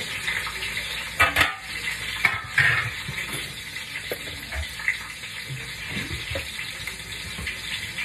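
Sliced onion frying in hot oil, a steady sizzle, with a few sharp knocks from a utensil or container about a second and two and a half seconds in.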